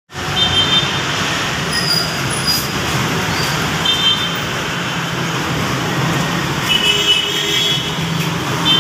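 Heavy city road traffic: a steady wash of engine and tyre noise, with a few brief high-pitched tones over it.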